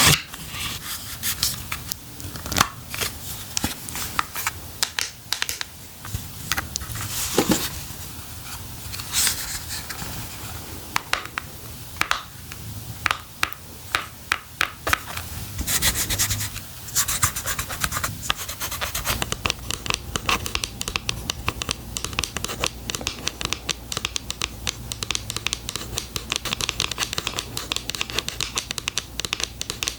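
Fingernails and hands scratching and tapping at product packaging close to the microphone: a steady run of quick clicks and scrapes that turns denser and faster a little past halfway.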